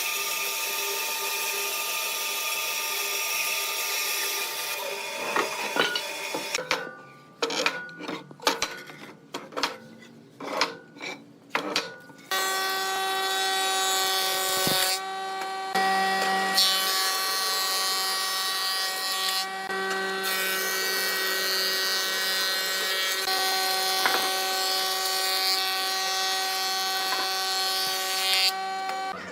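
Electric power tool working wood, running with a steady whine. In the middle it breaks into a series of short bursts for about five seconds, then runs steadily again.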